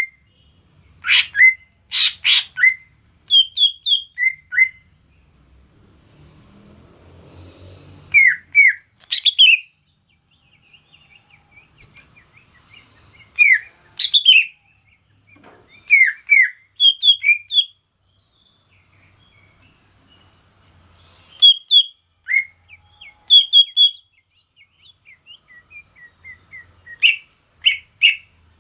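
A cucak ijo (greater green leafbird) singing: short clusters of sharp, quickly sliding chirps and whistles, repeating every few seconds with brief pauses between phrases. A steady high hiss runs underneath.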